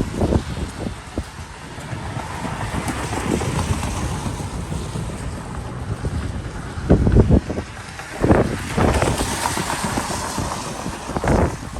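Wind buffeting the microphone in gusts, over a steady outdoor hiss.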